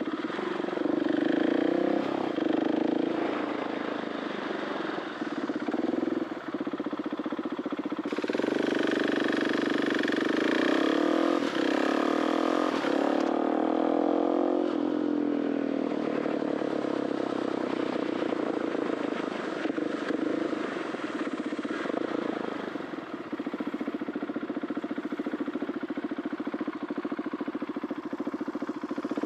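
2021 KTM 690 SMC R's 693cc single-cylinder four-stroke running through an Arrow titanium exhaust while being ridden, its note rising and falling with the throttle. It gets louder and revs harder about 8 seconds in, then eases back off around 14 seconds.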